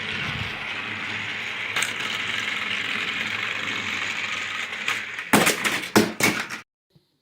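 A small electric toy-train motor whirring steadily, with a quick run of sharp clattering knocks about five seconds in, then cutting off suddenly.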